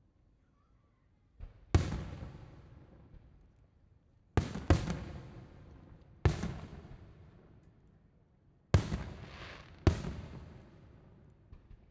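Fireworks show shells bursting overhead: six loud, sharp bangs, two of them close together near the middle, each trailing off in a rumbling echo over a second or two.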